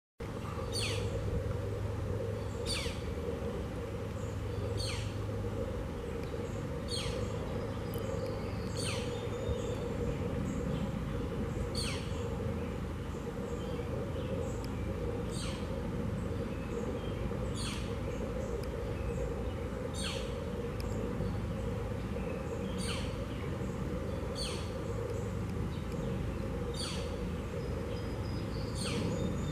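A songbird repeating a short, falling call note about every two seconds, over a steady low background hum.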